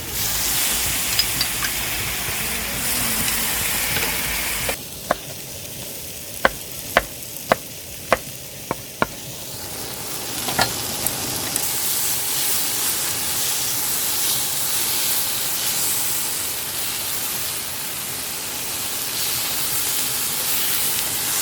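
Food sizzling and frying in a pan. The sizzle drops off suddenly about five seconds in, and a series of six or so sharp clicks follows before the sizzling resumes.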